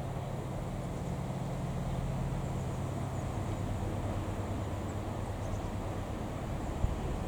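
A train's diesel engine running with a steady low hum.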